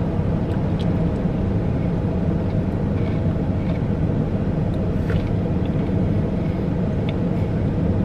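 Car engine idling, heard as a steady low rumble from inside the parked car's cabin, with a few faint clicks on top.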